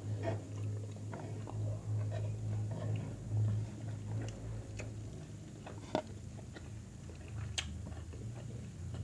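Close-miked chewing and biting of food, with small wet clicks and crackles, over a steady low hum. Two sharper clicks stand out in the second half.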